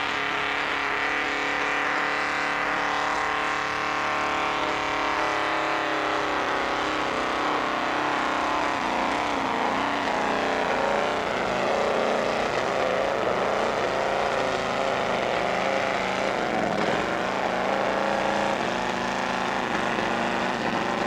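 Pulling tractor's engine running hard under load for a long stretch, its pitch sagging slightly over the first few seconds and then wavering, as it drags the weight sled; the tractor wants to go but can't quite, short of weight for traction.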